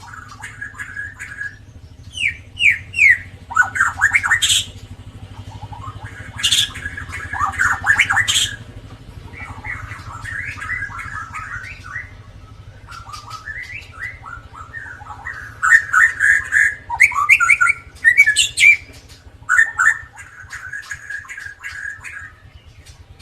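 White-rumped shama (murai batu) singing: varied phrases of clear whistles, quick pitch sweeps and harsher notes, in several loud bursts, over a steady low hum.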